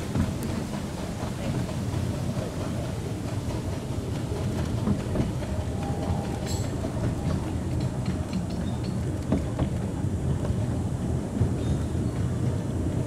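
A 15-inch (381 mm) gauge miniature railway train running on the track: a steady rumble with many small wheel clicks.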